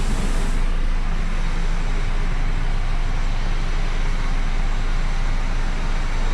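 Steady low rumble and hiss of running vehicle or machinery noise, loud and unbroken; the highest hiss drops away under a second in.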